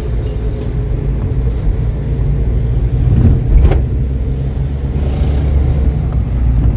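Steady low rumble of a car driving, with a single short knock about three and a half seconds in.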